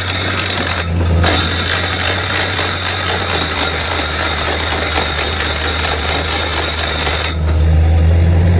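Borewell drilling rig running: a steady engine hum under dense rattling noise from the drilling. About a second in, and again from about seven seconds in, the rattling eases and the engine hum grows louder.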